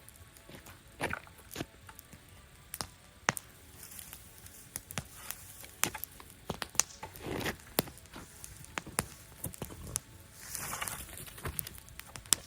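Wood campfire crackling, with irregular sharp pops and snaps and a few softer swells of hissing noise.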